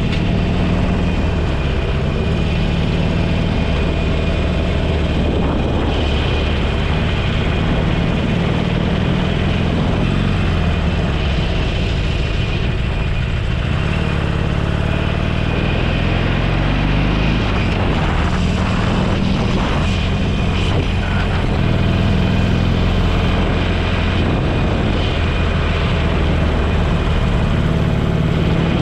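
Motorcycle engine running at road speed under steady wind and road noise, its note shifting down and back up a few times as the revs change.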